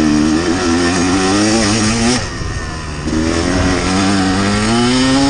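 Dirt bike engine running under throttle while riding. The engine note wavers and then drops off briefly a little after two seconds in, as the throttle is rolled off, and climbs again as it is opened back up.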